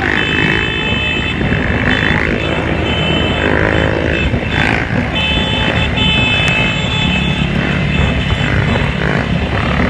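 Motorcycle engines running and revving. About halfway through, a steady high tone, like a horn or whistle, holds for a couple of seconds.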